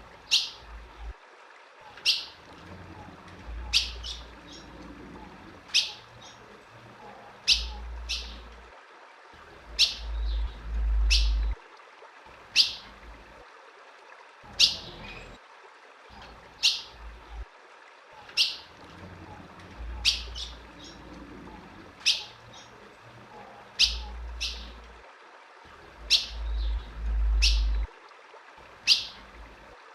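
Female ultramarine grosbeak (azulão) giving short, sharp chip calls, one every second or two. A few low rumbles come in under the calls.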